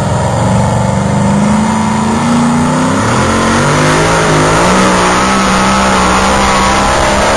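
Pulling truck's engine running hard under load, its pitch climbing, dropping abruptly about three seconds in, then climbing again and holding high.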